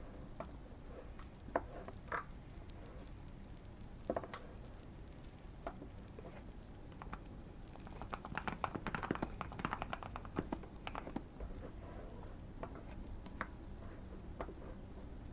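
Typing on a modded Keychron Q1 mechanical keyboard: scattered single keystrokes, then a quick run of typing from about eight to eleven seconds in. Soft fire crackling underneath.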